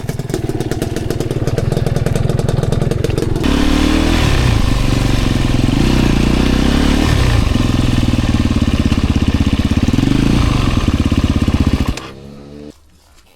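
Enduro dirt bike engine running, then opened up about three seconds in and revving up and down for several seconds before the sound cuts off suddenly near the end.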